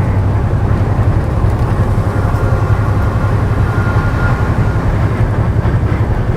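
Semi truck's engine and road noise droning steadily in the cab while driving on the highway, with a faint high whine for a few seconds in the middle.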